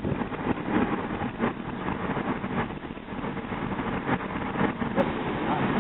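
Car on the road: steady engine and tyre noise.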